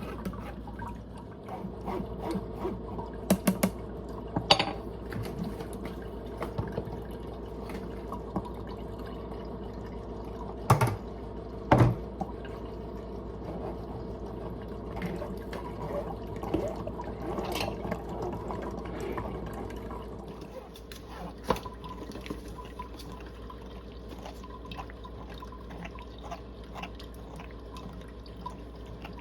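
Blended juice dripping and trickling as it strains through into a container, with a few sharp knocks from handling the strainer and jar.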